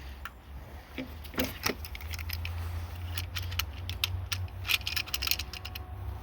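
Small metallic clicks and jingling of hand tools: hose-clip pliers being worked onto a spring hose clip, with a steady low hum underneath.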